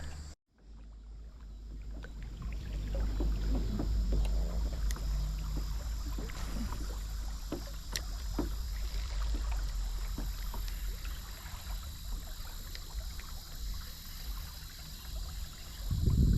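Kayak on a river: small water splashes and knocks against the hull over a steady low rumble, after a brief dropout about half a second in.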